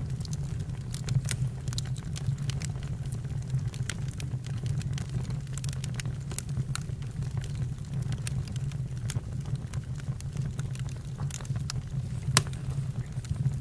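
Campfire crackling: irregular sharp pops and snaps over a steady low rumble, with one louder pop near the end.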